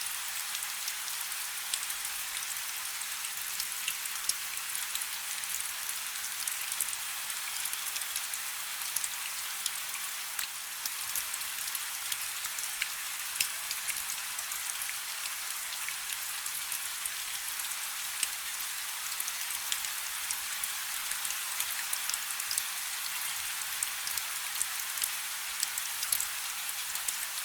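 Steady rain falling on a river: a dense, high hiss with many sharp individual drop ticks.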